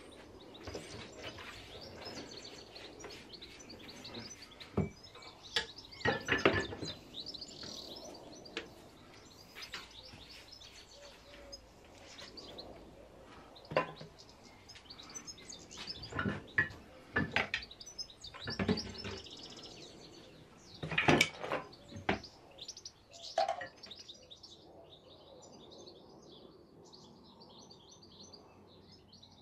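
Small birds chirping and singing, with scattered knocks and clatters throughout the first two thirds; after that only faint chirping remains.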